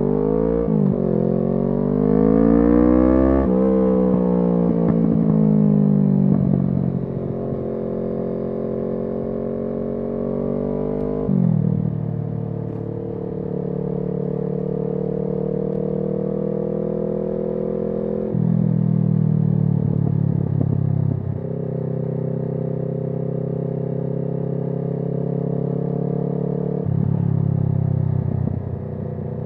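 Kawasaki Z650's parallel-twin engine through an SC-Project aftermarket exhaust, pulling up through the gears: the pitch climbs and drops at a shift about a second in and again about three and a half seconds in. It then eases off slowly and settles to a steady cruise, with the revs stepping up or down on the throttle a few times.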